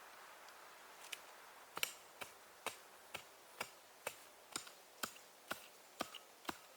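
A steady run of sharp, crisp knocks, about two a second, starting about a second in.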